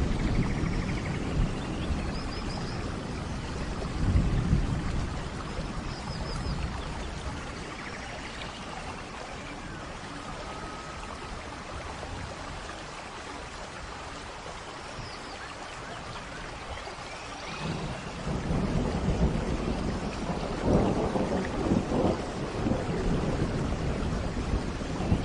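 Steady rain with rolling thunder: a low rumble about four seconds in, then louder, longer rumbling from about eighteen seconds on.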